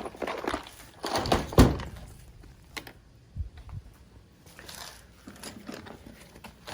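Gear being handled and packed: rustling with several thumps and knocks, the loudest a single thump about a second and a half in, then a few lighter clicks and knocks.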